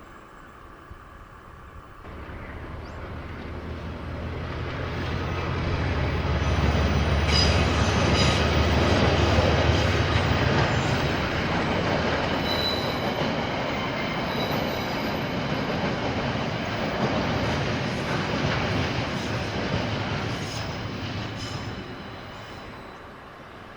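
KiwiRail diesel train passing: a low locomotive engine rumble builds to its loudest about six to ten seconds in, then the steady rumble of the wagons runs on and fades away near the end, with a few brief high wheel squeals.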